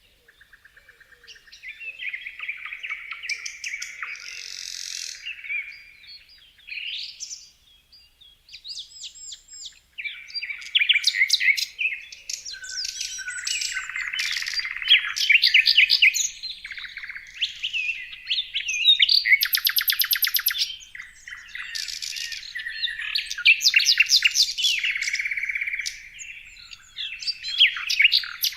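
Songbirds singing and chirping in a dense, overlapping chorus of quick repeated notes, trills and high whistles. The chorus thins out for a couple of seconds partway through, then grows busier and louder.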